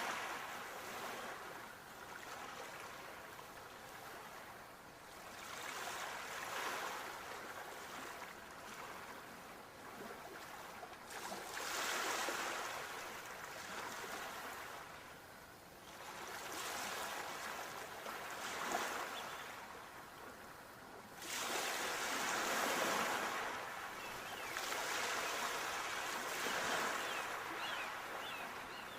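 Sea waves breaking and washing up the shore, each swelling and fading away about every five to six seconds.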